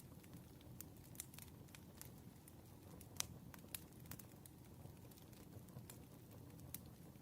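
Campfire burning faintly, with irregular crackles and small pops of burning wood over a low steady rumble; the sharpest pop comes about three seconds in.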